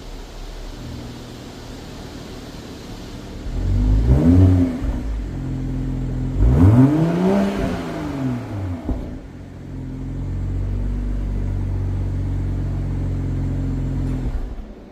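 BMW M440i's turbocharged 3.0-litre straight-six running through its stock exhaust. It idles, is revved twice (a short blip, then a longer rev that rises and falls), then holds a steady, slightly raised engine note that stops shortly before the end.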